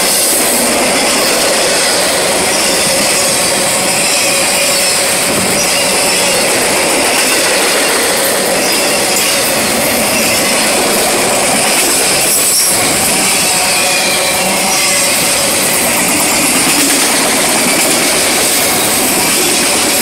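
Freight train of autorack cars rolling past close by: the steady, loud noise of steel wheels on rail, with some faint high tones through it.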